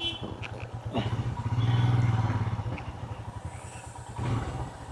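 Motorcycle engine running at low speed with an even pulsing beat, growing louder for a second or two near the middle and easing off, with a smaller rise near the end.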